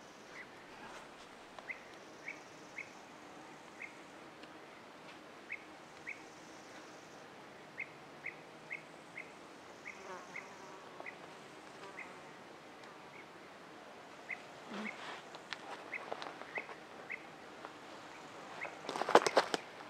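Forest ambience: a short, high chirp repeated irregularly about every half second to a second, over a faint hiss of insects. A loud crunching rustle comes near the end.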